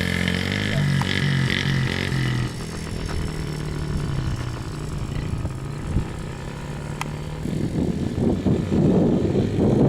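Youth dirtbike engine running, its pitch stepping up and down with the throttle for the first couple of seconds, then dropping away. From about seven and a half seconds in, a louder rough rushing noise takes over.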